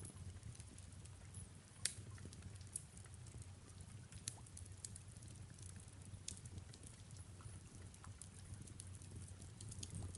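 Wood fire crackling in a fireplace: scattered small pops and snaps, one sharper pop about two seconds in, over a low steady rumble.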